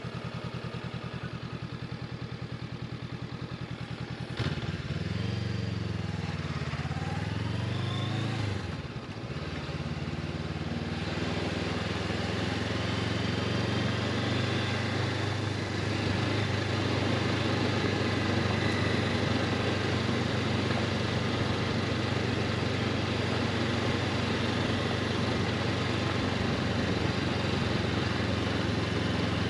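Honda CB500X parallel-twin engine idling with an even pulse, then pulling away about four seconds in, its pitch rising and falling and dipping briefly near nine seconds in, before it settles into a steady run.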